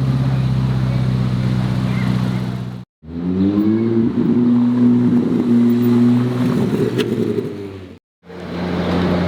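Car engine running in three short cuts. In the middle cut, starting about three seconds in, the engine revs up briefly and then holds a steady pitch; each cut ends in a sudden gap.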